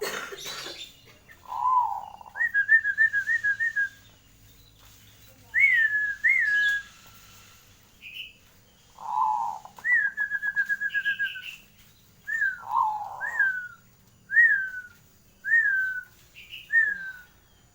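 Zebra dove (perkutut) calling repeatedly: low coos alternating with higher rapid trills and short falling whistled notes that come about once a second near the end. A brief rustle sounds right at the start.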